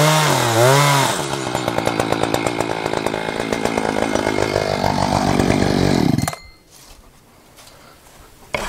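A small gasoline engine running roughly with a rapid pulsing beat, its pitch wavering, then shut off abruptly about six seconds in.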